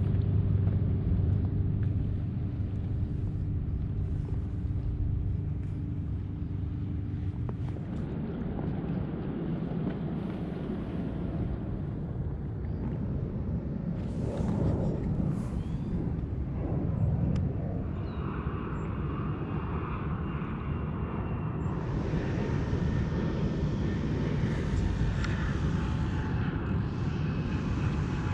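Steady low engine rumble with faint steady tones in it; higher whining tones join about two-thirds of the way through.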